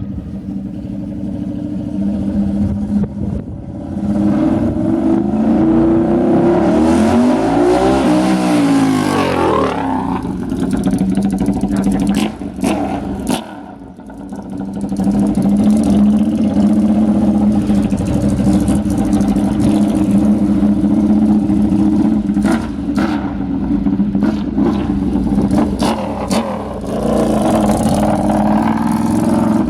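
Ducati 848's L-twin engine running loud through a Termignoni full exhaust with the mufflers and dB killers removed, a deep, steady note that swells in pitch about eight seconds in, drops away briefly around fourteen seconds, then runs on steady with another rise near the end.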